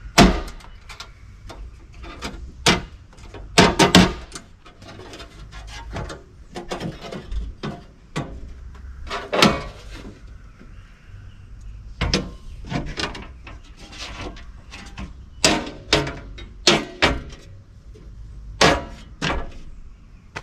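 Broaddict powder-coated steel folding tailgate table being unfolded: a series of separate sharp metallic knocks and clicks, some loud, as its panels and supports swing out and lock into place.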